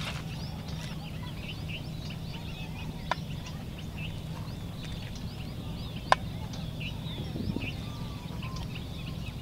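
Many small birds chirping in short, scattered calls, over a steady low hum. Two sharp clicks cut through, a small one about three seconds in and a louder one about six seconds in.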